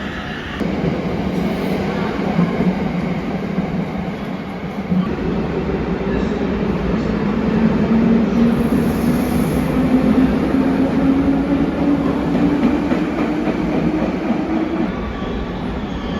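Electric train moving at the platform, with the steady rumble of the cars. From about halfway through, a motor whine climbs steadily in pitch as the train picks up speed, then fades near the end.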